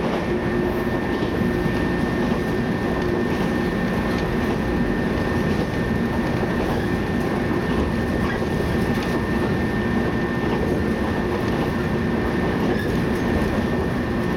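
Running noise of a JR West 115-series electric train at steady speed, heard from inside the carriage: wheels rumbling on the rails with a steady hum over it.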